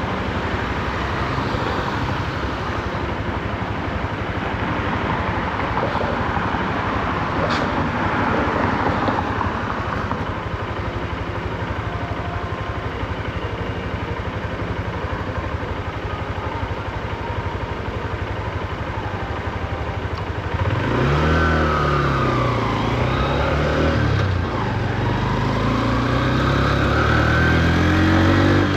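Honda CB125F's single-cylinder engine in city riding, running low and steady under traffic and wind noise, then pulling away about two-thirds of the way in: the engine note rises, drops at a gear change, and rises again near the end. It is held to low revs because the new engine is being run in.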